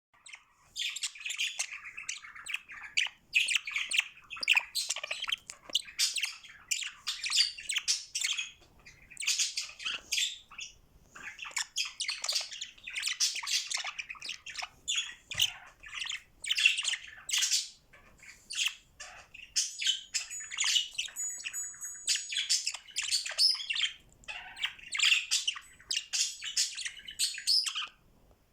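Budgerigar chattering and warbling: fast, high-pitched runs of chirps and squawks in phrases of a few seconds with short pauses between them.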